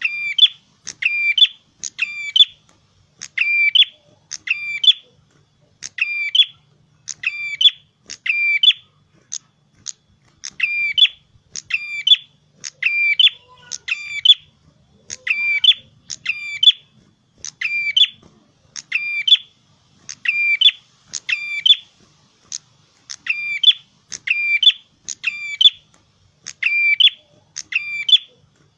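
Prenjak kepala merah (a small prinia-type songbird) calling in a loud, steady series of sharp chirping notes, about one and a half per second, each note repeated the same way and with no break.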